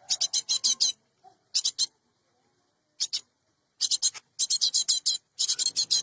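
Cinereous tit (gelatik batu) calling: quick series of short, high, scratchy notes, two to six notes per run, repeated with brief pauses.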